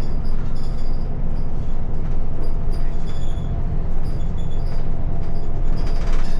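Steady low rumble and hum of a running vehicle.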